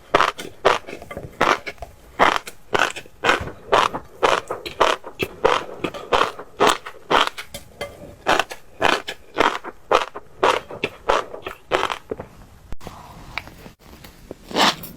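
Close-miked eating of fish roe: loud, crisp crunching and popping with each chew, about two a second, with a short pause near the end.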